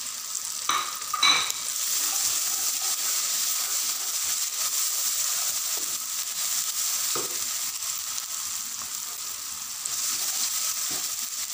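Onion-tomato masala with green chillies and ground spices sizzling in hot oil in a non-stick pan while a spatula stirs and scrapes through it. A couple of sharp knocks of the spatula on the pan come about a second in.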